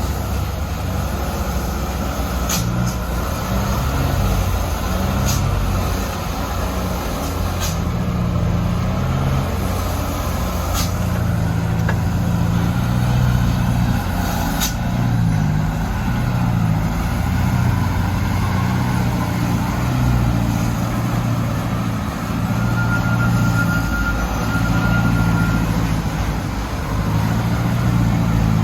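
A Mitsubishi Canter truck's diesel engine running under a heavy overload of sand, its pitch shifting up and down. A few sharp knocks come in the first half.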